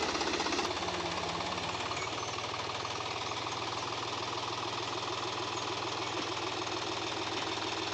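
Deutz-Fahr Agromaxx 50's three-cylinder diesel engine running steadily, an even rapid clatter that holds unchanged. The seller calls the engine sound very smooth.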